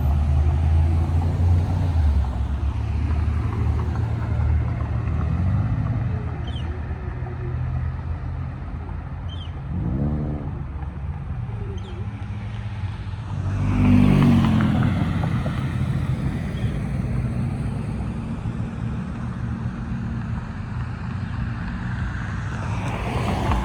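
Road traffic: an engine idles with a steady low hum while vehicles drive past. The loudest pass-by comes about two-thirds of the way through.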